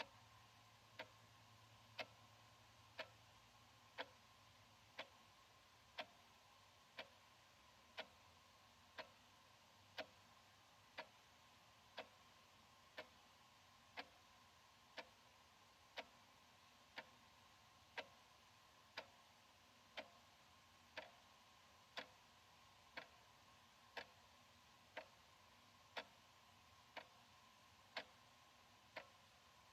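Analog wall clock ticking steadily, one faint sharp tick each second.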